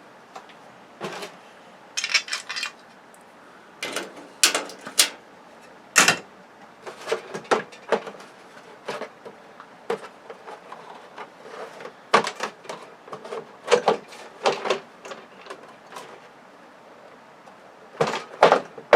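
Scattered, irregular clicks, taps and knocks of hands and tools on a flat-screen TV's housing and screws, as the stand and back cover are worked loose.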